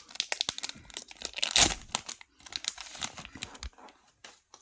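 Trading-card pack wrapper crinkling and being torn open, with dense rustling and one louder burst about a second and a half in.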